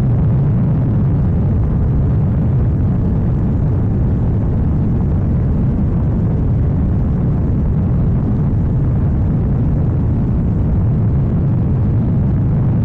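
KTM Duke 790's parallel-twin engine through an Arrow full exhaust system, running at a steady pitch with no clear revving or shifts.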